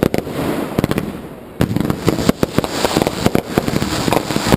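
Fireworks going off in quick succession: a loud bang at the start, then rapid bangs and crackling, with a dense new volley of reports about a second and a half in.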